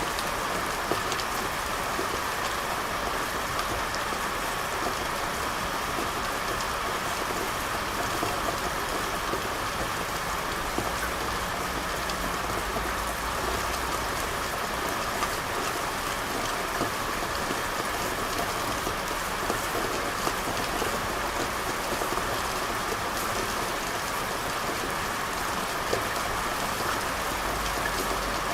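Steady rain falling on hard surfaces, with many small drips and splashes scattered through it and a faint low rumble underneath.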